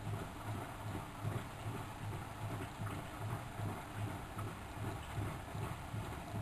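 Miele W763 front-loading washing machine running, its low motor hum pulsing about three times a second.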